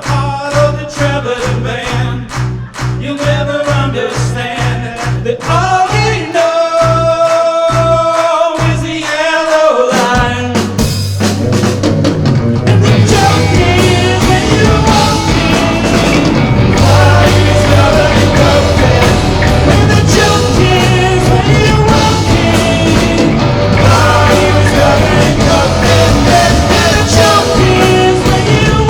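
Live rock band playing a song with a singer. At first a steady pulsing beat carries the song; a few seconds in it drops to held notes with short stops, and about ten seconds in the full band comes back in, louder.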